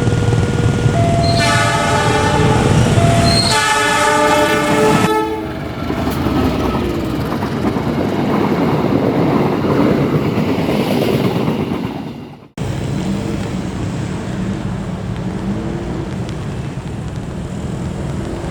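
Passing train sounding its horn in two blasts of several tones together near the start, over the steady rumble and rush of the train. About two-thirds of the way through, the sound cuts out abruptly and the steady noise comes back.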